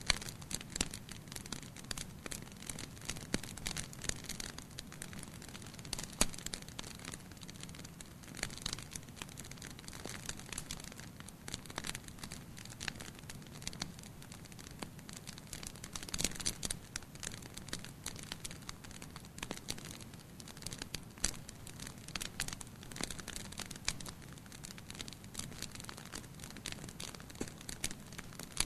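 Wood fire burning in a fireplace: constant irregular crackling and popping over a soft low hiss of the flames.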